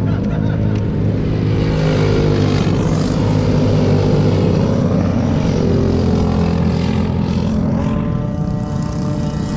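Several small mini bike engines racing past at once, their buzzing pitches rising and falling as they rev through the course. The sound swells to its loudest around the middle and then eases off.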